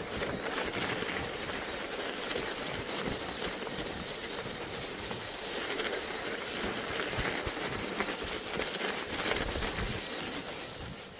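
Bicycle riding over a snowy trail: tyres crunching through snow, with scattered rattles and knocks from the bike and wind on the microphone.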